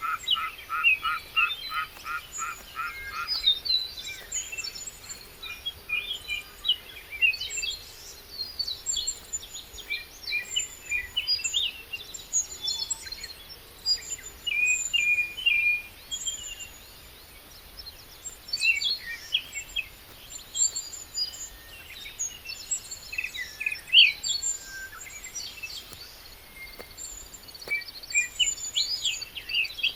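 Several wild birds chirping and trilling throughout. For the first three seconds or so a frog croaks in a fast, even series of pulses, then stops.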